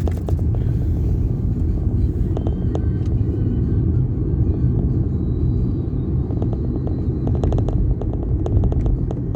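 Vehicle on the move: a steady low rumble of road and wind noise, with scattered light clicks and ticks.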